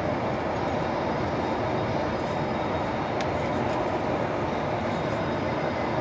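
Steady cabin noise of an Airbus A220-300 in flight: an even rush of airflow and engine noise heard from inside the cabin. There is a faint click about three seconds in.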